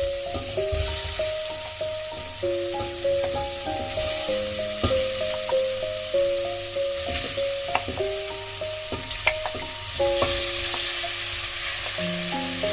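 Food sizzling as it fries in a pan, a steady hiss that starts suddenly, with a few light clicks of a utensil stirring it.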